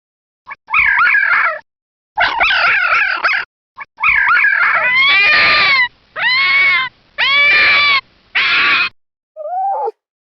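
A canine whining and howling: a run of quavering, wavering cries, then several drawn-out, arched howls each about a second long, ending with a short falling whine.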